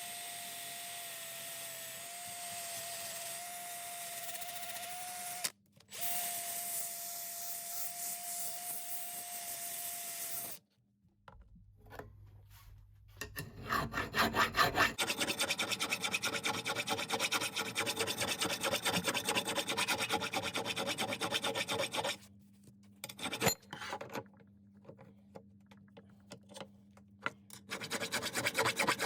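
A small power tool runs with a steady whine for about ten seconds, cutting out briefly partway. After a pause, a hand rasp scrapes over wood in quick repeated strokes, stopping for a few seconds and then starting again near the end.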